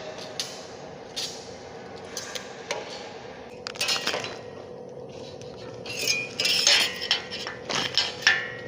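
Steel parts at a hole-punching press clinking and knocking together irregularly, a dozen or so sharp metallic clinks, busiest near the middle and toward the end, over a steady hum from the machine.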